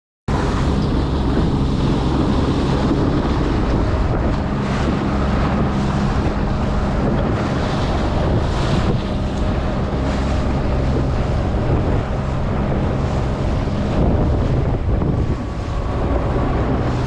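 Boat engine running steadily while the boat moves through the water, with heavy wind buffeting the microphone and water rushing along the hull.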